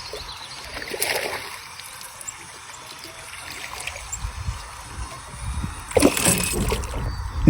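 Water splashing and trickling around a small hooked fish just landed, with a louder splash about six seconds in.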